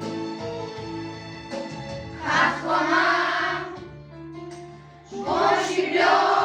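Children's choir singing a song over an instrumental backing track, with two loud held sung phrases, one about two seconds in and another about five seconds in.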